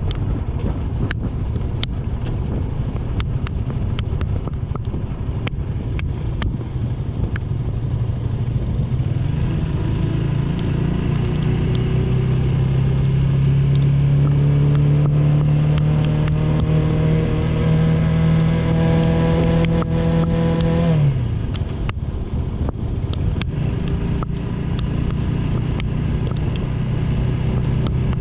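AKT GP 180 motorcycle engine running on the road with wind noise. Its pitch climbs steadily as it accelerates from about a third of the way in, then drops suddenly about three quarters through.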